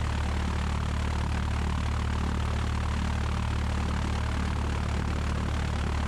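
Cessna 172's four-cylinder Lycoming piston engine and propeller running steadily at low power on the ground, a constant drone.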